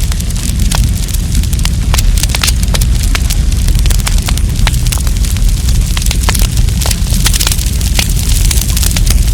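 Wood campfire crackling: many sharp snaps and pops, several a second, over a steady low rumble of the flames.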